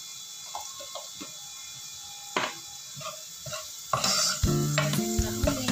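Garlic and dried shrimp sizzling in hot oil, with a steady hiss. About four seconds in, a spatula starts stirring and scraping them around the nonstick pot, and background music with plucked notes comes in.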